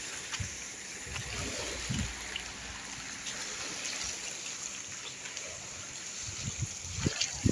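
Gentle seawater lapping and trickling at the shoreline, a steady wash with a few soft low thuds.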